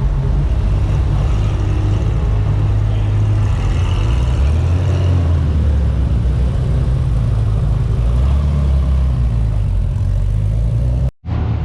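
Car engines running with a deep, steady rumble as cars pull in, the pitch of the rumble shifting slowly. The sound cuts out abruptly for a moment near the end.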